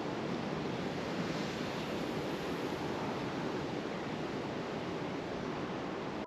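Wind rushing steadily through bare winter trees, with a hissing sound.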